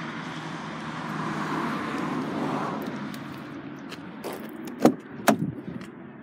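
Steady outdoor traffic noise, then two sharp clicks about half a second apart near the end: a Volvo V70's door latch and door being opened.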